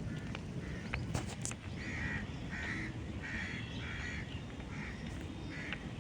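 A bird calling over and over: short calls, about two a second, starting about two seconds in, over a steady low outdoor rumble.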